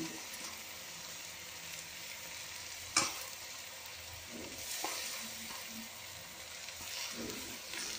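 Chicken and masala sizzling gently in the pot on low heat while soaked rice is tipped in from a steel bowl and scraped out by hand, with one sharp knock about three seconds in.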